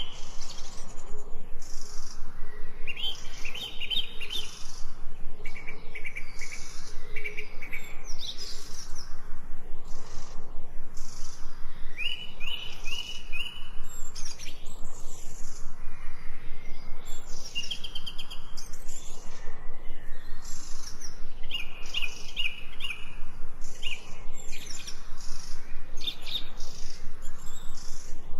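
Birds chirping and singing in repeated short phrases of quick high notes over a steady background hiss of outdoor ambience.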